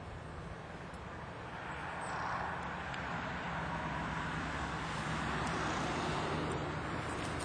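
Honey bees buzzing in numbers around their hive, a steady drone that swells about two seconds in and then holds.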